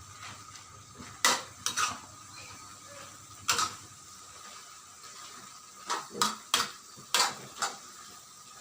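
A spatula knocking and scraping against a cooking pan as kaeng hoh with glass noodles is stir-fried. There are about nine short, irregular knocks over a faint steady hiss.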